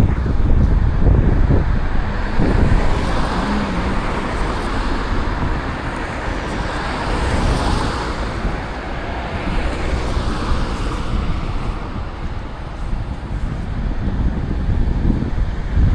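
Road traffic passing on a city street, with a steady low wind rumble on the microphone; the traffic noise swells as a vehicle goes by around the middle, then eases off.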